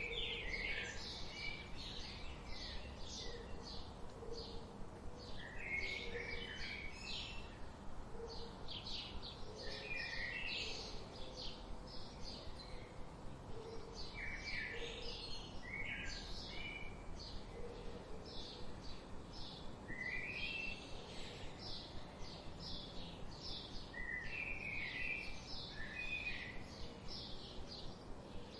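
Several songbirds singing and chirping in overlapping bursts of quick, high notes and short trills that come in clusters every few seconds, over a soft natural background hiss, with a lower note repeating faintly underneath.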